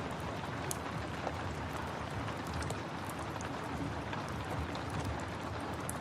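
Steady rain hiss mixed with a wood fire in a fireplace, a few sharp crackles popping irregularly over the even rush of the rain.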